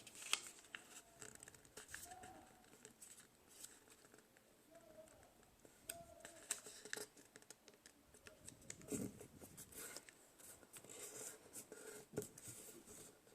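Faint, irregular rustling and scraping of a square of origami paper being folded by hand and creased flat, with scattered soft ticks.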